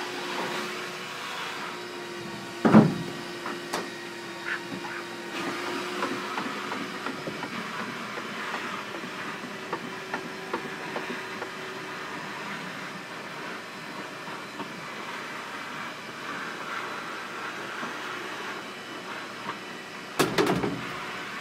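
Steady mechanical running noise, an even hiss over a low hum, with a single loud knock about three seconds in and a short clatter near the end.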